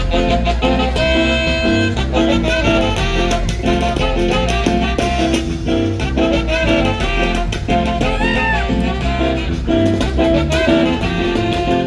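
Band music with brass and a steady bass beat, playing a lively Latin dance tune.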